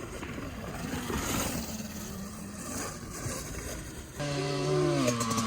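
A dirt bike riding the track, faint and distant at first; about four seconds in, a louder motor note comes in, drops in pitch, then holds steady.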